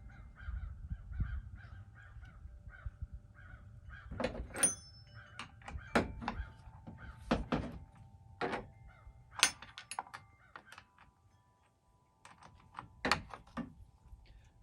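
Sharp, separate clicks and knocks of metal parts and a hand tool on a chainsaw while the bar nuts and cover are worked loose, one a short metallic clink that rings about four and a half seconds in.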